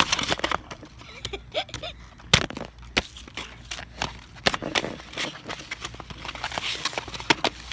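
Irregular sharp clicks and knocks of plates and food being handled, with the loudest knocks about two and a half and three seconds in.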